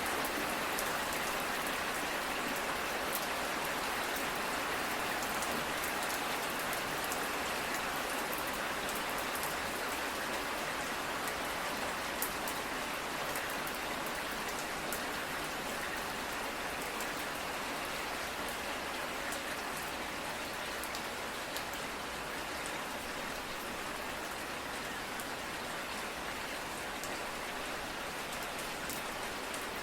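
Steady rain falling, with scattered drops ticking on a surface, easing slightly toward the end.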